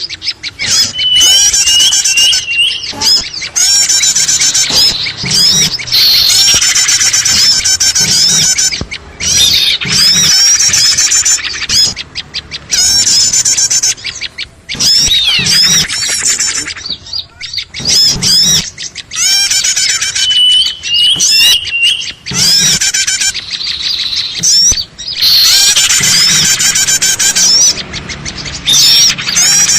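Bird-lure recording of a busy chorus of small songbirds: dense, overlapping high chirps, trills and calls, loud, with brief pauses and the same phrases coming round again.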